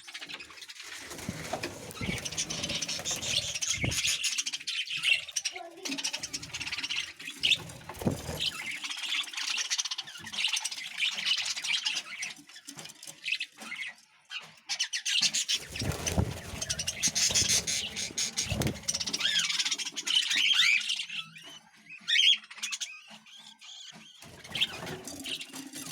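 Budgerigars chattering and squawking in a busy run of short, quick high notes, with a few low thumps along the way.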